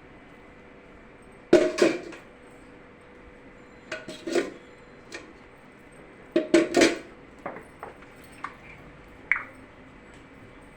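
Hard objects clattering and knocking together in three short bursts, then a few lighter single knocks.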